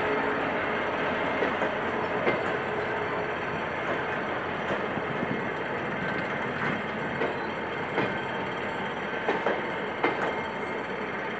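Passenger coaches of a departing train rolling past: a steady rail rumble with irregular sharp clicks from the wheels over the rail joints, slowly fading.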